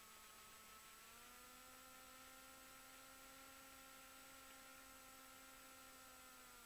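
Near silence: a faint steady hum that steps up slightly in pitch about a second in and drops back near the end, with a thin high whine.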